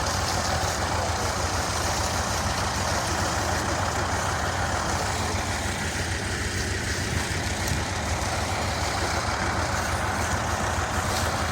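Tractor diesel engine running steadily, a continuous low hum with mechanical noise over it.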